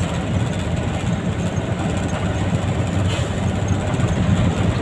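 Diesel engine of a Fuso 10DC11 tractor head truck running steadily as the truck drives, a low rumble.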